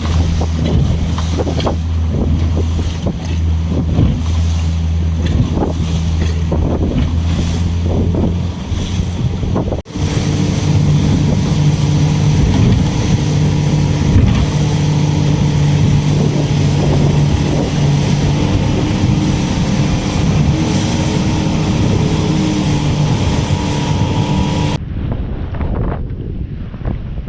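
Boat engine running steadily under a rush of wind on the microphone in strong wind. The engine note changes suddenly about ten seconds in and again near the end.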